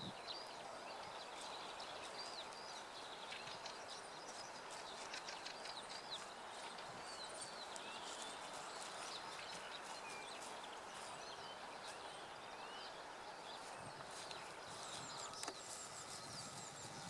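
Small birds chirping and singing faintly, many short calls and quick whistled glides, over a steady rush of wind.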